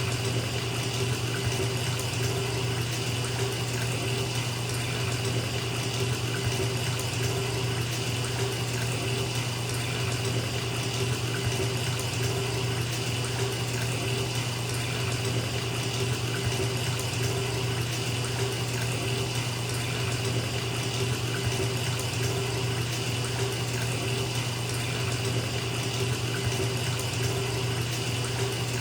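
Bathtub filling from the tap: a steady, unbroken rush of water pouring into the tub.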